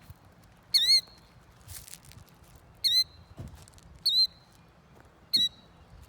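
Killdeer calling: four short, shrill calls spaced about a second apart.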